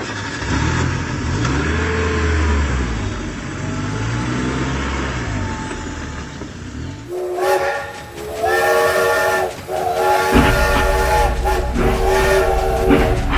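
A rumbling, hissing noise, then about seven seconds in a multi-tone train horn sounds in several blasts with short breaks between them.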